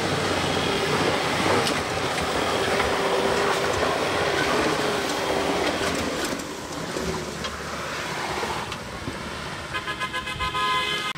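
An off-road 4x4's engine running hard under load, its pitch wavering over a rough, noisy clatter. The level drops somewhat after about six seconds, and near the end the sound turns to a fluttering pulse.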